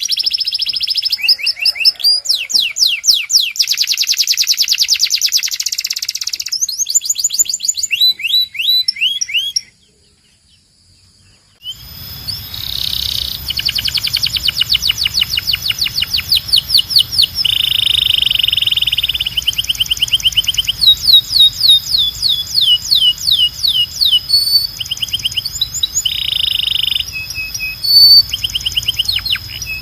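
Domestic canary singing: long runs of fast repeated trills and rolls. The song breaks off for about two seconds a third of the way in, then resumes over a low steady hum.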